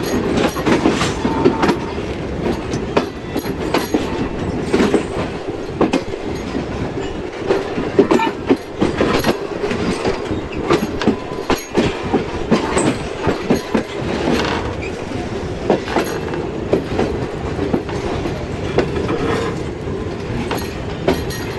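Passenger train of the Karachi Express running, its wheels clattering and knocking irregularly over rail joints and points.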